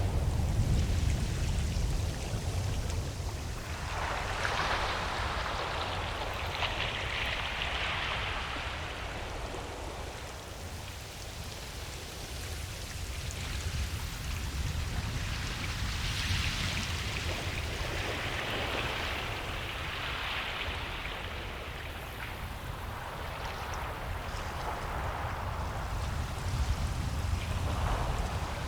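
Ocean surf on a beach: waves break and wash in, the hiss swelling and easing about every twelve seconds over a steady low rumble.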